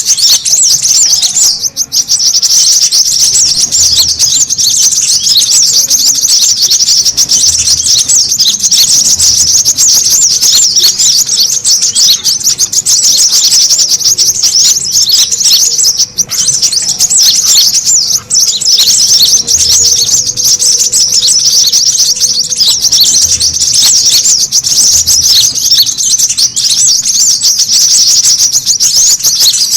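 A crowd of brown-throated sunbirds chirping and twittering together in a dense, continuous high-pitched chatter. It is a bird-lure call meant to draw sunbirds in.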